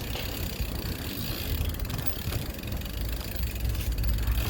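Wind rumbling on the microphone over the running noise of a bicycle being ridden, with a few faint clicks about two seconds in.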